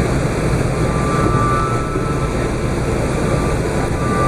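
Steady engine and airflow rumble heard inside the cabin of an Airbus A380, with a faint high whine over it.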